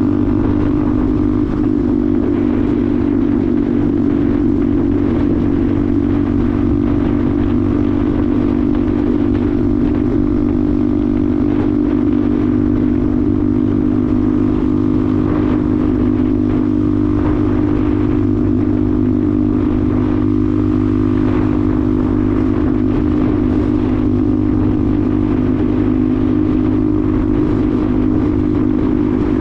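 Benelli TNT 125's single-cylinder engine running at a steady, unchanging pitch, with a rushing noise underneath.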